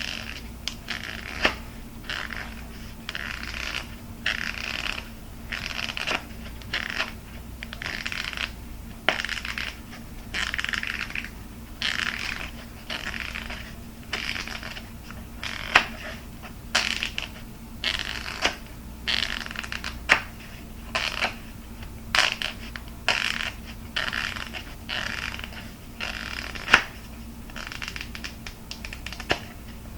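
Close-up ASMR handling of hard plastic objects: short scratching and rubbing strokes at an uneven pace, broken by sharp taps and clicks.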